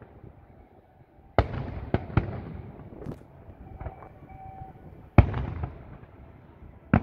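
Aerial fireworks shells bursting: a series of sharp bangs, loudest about a second and a half in and again about five seconds in, each trailing off in a long echo.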